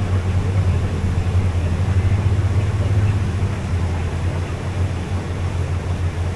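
An engine running steadily with a constant low drone under a wash of noise.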